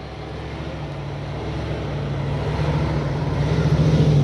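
Engine of a 4x4 off-road vehicle running steadily under load, growing steadily louder.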